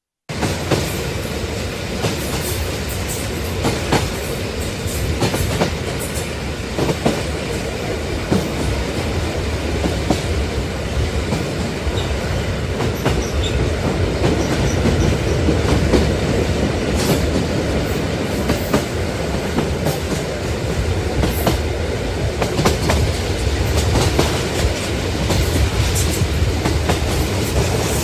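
Passenger train running along the track: a steady rumble with irregular clicks and clatter of the wheels over the rails.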